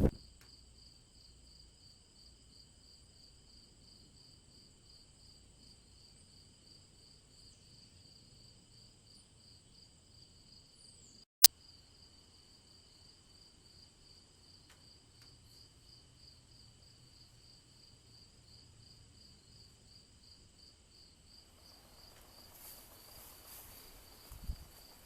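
Crickets chirping in a steady, rapid trill. A single sharp click about eleven seconds in, and a soft rustling with a small thump near the end.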